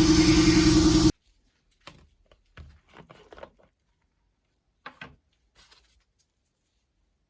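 A power tool's motor running loudly and steadily with a humming tone, cutting off abruptly about a second in. Then a few light clicks and knocks from handling a small metal object, in a small room.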